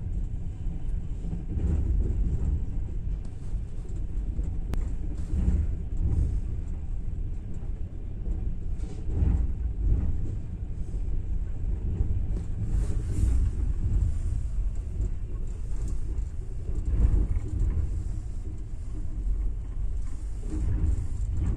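Steady low rumble of a passenger train running along the rails, heard from inside a sleeper carriage, with a brief louder thud every few seconds.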